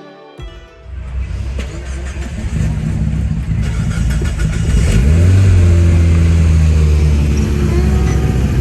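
Car engine revving and accelerating, louder about five seconds in as its pitch rises and then holds at a steady, loud drone.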